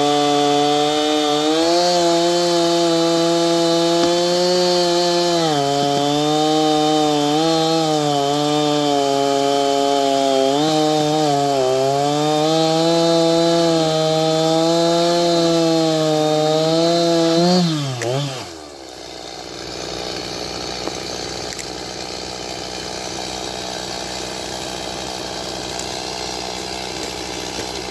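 Gas chainsaw running at high speed, its pitch dipping and recovering again and again as it takes load. About eighteen seconds in the pitch drops sharply and the sound falls away to a quieter steady noise.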